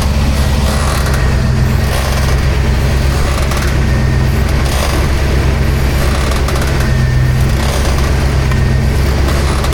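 K5 Blazer's engine idling steadily, with a few brief, noisier patches over it.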